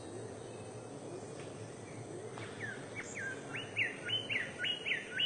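A bird calling a quick run of repeated notes that sweep down and up in pitch, about three a second, starting about two and a half seconds in, over a steady background hiss.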